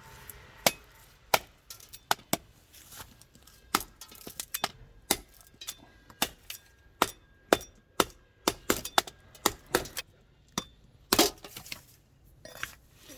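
A series of sharp knocks and clinks of hard objects, coming at an uneven pace, sometimes two or three close together and sometimes with gaps of a second or more.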